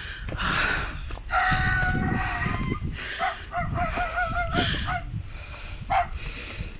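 Animal calls: a drawn-out pitched call starting about a second in, then a wavering, warbling call in the middle, over a low rumbling noise.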